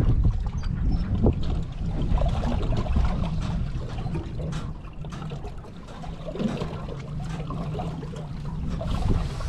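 Wind rumbling on the microphone, easing off about halfway through and building again near the end, with faint trickling water and a few small knocks.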